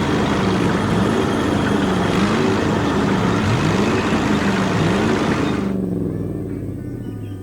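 A motor engine sound effect revving up again and again over a loud, noisy roar, dropping away about six seconds in.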